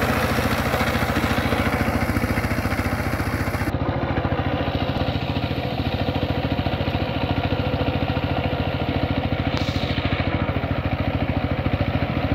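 Power tiller's single-cylinder diesel engine running steadily with a rapid, even chug while it tills deep mud.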